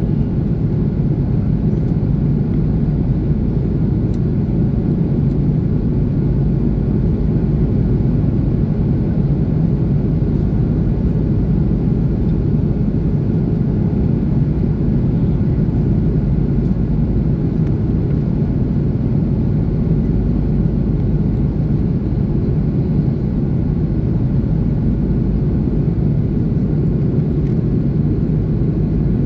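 Steady cabin roar inside an Airbus A330-300 in flight, from its Pratt & Whitney PW4000 engines and the airflow over the fuselage. The roar is deep and unchanging, with faint steady hum tones in it.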